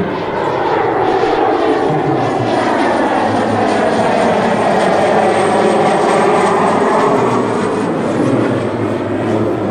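Pilatus PC-12NG's single Pratt & Whitney PT6A turboprop engine and propeller passing close by, swelling to its loudest about six seconds in with a sweeping, phasing sound as it goes past.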